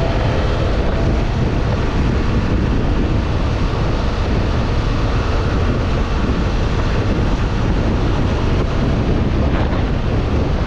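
Wind buffeting the microphone on a moving motorcycle, a steady rush with the engine and road noise underneath.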